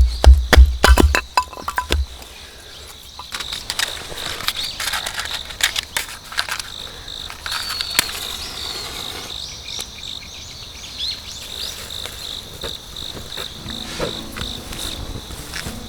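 Insects chirping in a steady high-pitched drone, with scattered small clicks and rustles. Loud rhythmic thumping in the first second or so.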